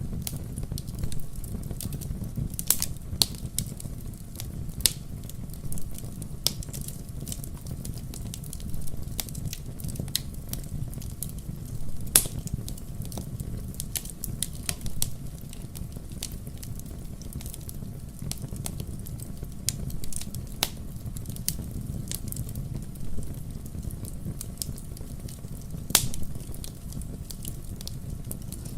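Wood fire crackling: irregular sharp pops and snaps, a few of them louder, over a steady low rumble.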